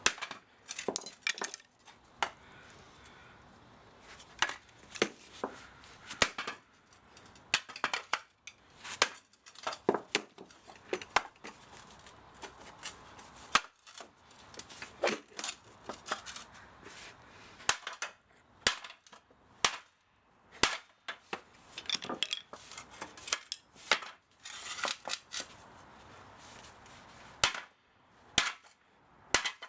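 Irregular sharp metal knocks and clinks as tools strike and pry at the parts of an old electric spa motor being taken apart for scrap. Some blows are hard and ring briefly, others are light taps, with short pauses between bursts.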